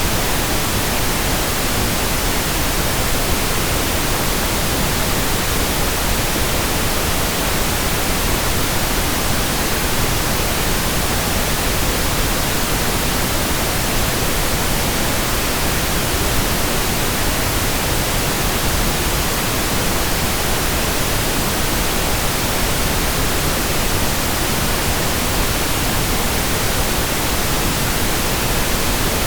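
Steady synthetic pink noise: an even, unchanging hiss spread across the whole range of pitch, with no breaks or events.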